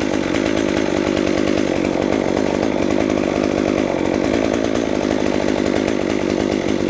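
Small chainsaw running steadily at high revs, cutting through oak, its chain a little dull.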